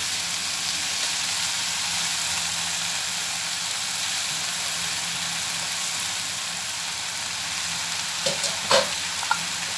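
Chicken strips, onion and grated potato frying in ghee in a nonstick pan, giving a steady sizzle while grated carrots are tipped in. A few short knocks come near the end.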